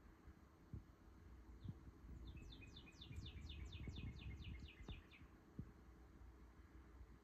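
Faint room tone with a low rumble and a few soft knocks. About two seconds in, a small bird sings a trill of about a dozen quick, evenly spaced chirps lasting roughly three seconds.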